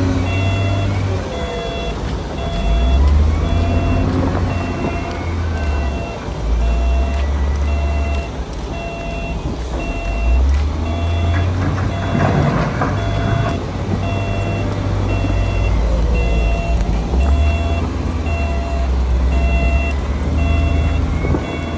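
Diesel engine of a heavy earthmoving machine running and rising and falling in load every few seconds, with a reversing alarm beeping about once a second. A brief rough noisy burst comes about halfway.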